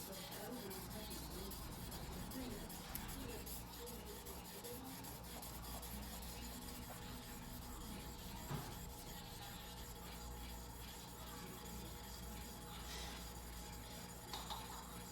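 A steel yanagiba blade being rubbed on a whetstone by hand, a steady gritty scraping.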